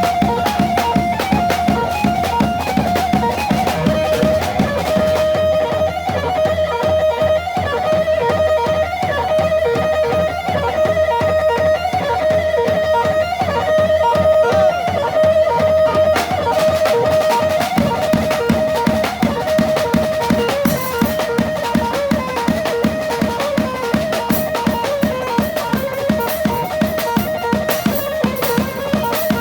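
Domki dance music in 6/8: a plucked string instrument plays a steady, repeating melody over a driving drum beat.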